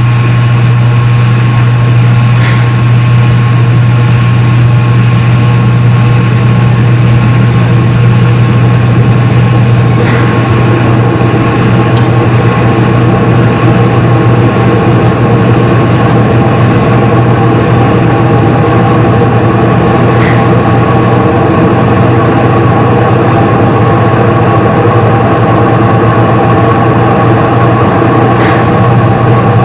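Front-load washing machine in its spin cycle: a loud, steady motor hum with a low drone and a few thin whining tones above it, with no change in speed.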